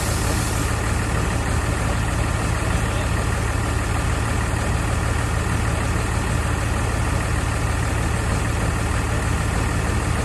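Diesel front-end loader engine idling steadily, with a brief hiss right at the start.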